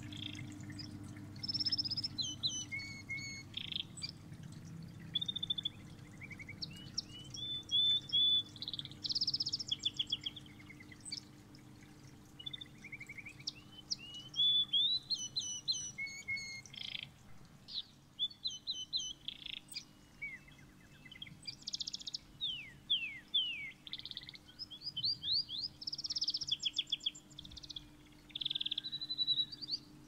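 A songbird singing in varied phrases of chirps, fast trills and quick whistled slurs, over a steady low hum.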